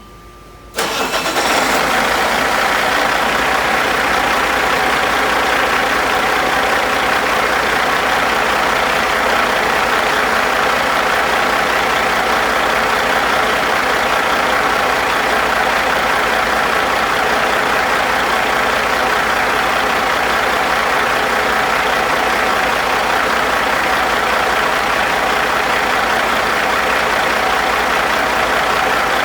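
Caterpillar 3406E 14.6-litre inline-six diesel engine starting about a second in, then running steadily at idle.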